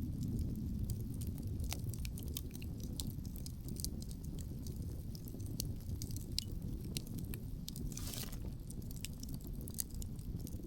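Wood campfire crackling with many sharp, irregular pops over a steady low rumble of wind, with a short hiss about eight seconds in.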